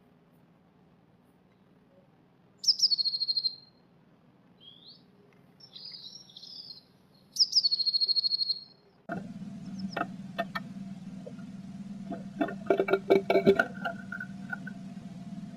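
Blue tit singing twice, each phrase a thin high note falling into a fast trill about a second long, with softer chatter between. From about nine seconds in the sound changes to a steady low hum with a run of taps and scratches, densest near the end.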